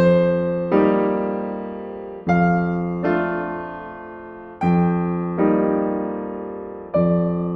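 Slow, calm solo piano music: chords struck in pairs about every two and a half seconds, each left to ring and fade away.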